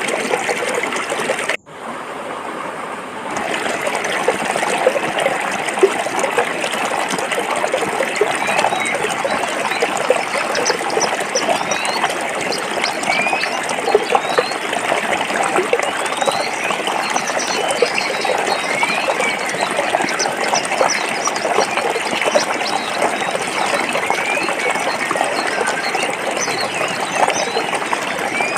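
Water flowing over rocks in a forest stream: a steady trickling, gushing rush. A second or so in, the sound cuts out almost completely for an instant, then swells back over the next couple of seconds. From about ten seconds on, short faint rising chirps sound high above the water.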